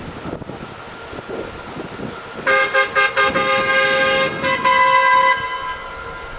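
Narrow gauge industrial locomotive's horn sounding a chord of several tones, about two and a half seconds in: a few short blasts followed by a longer one, lasting about three seconds in all.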